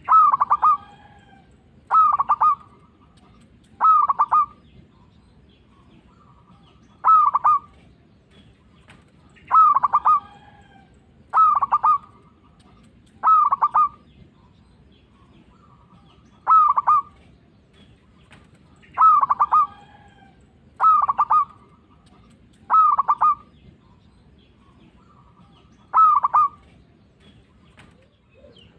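Zebra dove (perkutut) singing: about a dozen short bursts of its staccato cooing, each about half a second long and repeated every two seconds or so.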